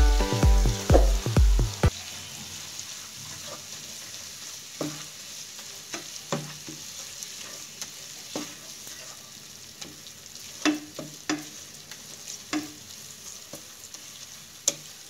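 Mustard paste, onions and spices frying in mustard oil in a nonstick pan, sizzling steadily while a spatula stirs and scrapes, knocking against the pan every second or two. Background music with a steady beat ends about two seconds in.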